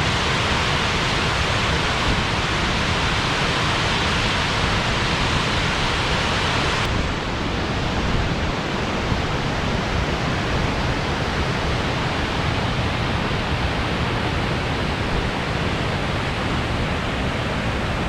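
Waterfall's steady rush of falling water. About seven seconds in, the sound shifts and loses some of its upper hiss.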